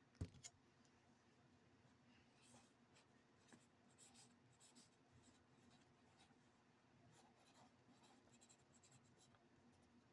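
Faint scratching strokes of a drawing tool on paper as a drawing is coloured in, with a single light knock just after the start.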